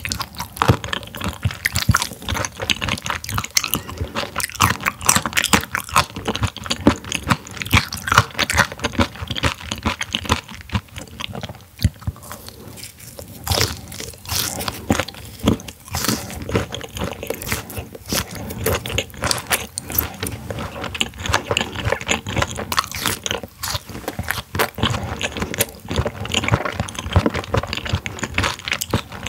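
Close-miked chewing of slices of raw silver pomfret (butterfish) sashimi, partly frozen, with a dense run of wet crunching and crackling bites.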